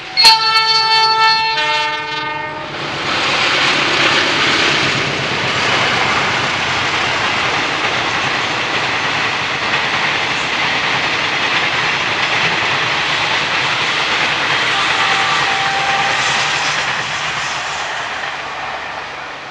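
Train sounds a loud horn with several tones together for about two seconds, then passes close by with a steady rushing rail noise that fades near the end.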